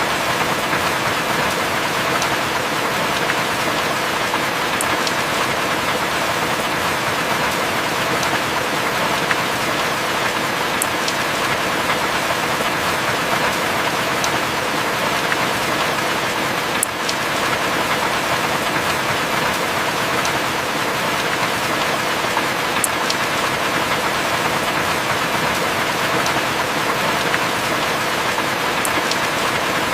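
Heavy rain falling steadily, with occasional sharp single drops ticking out above the downpour.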